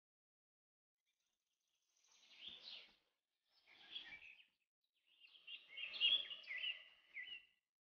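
Birds chirping in three short bursts of quick, gliding calls, the last and longest near the end.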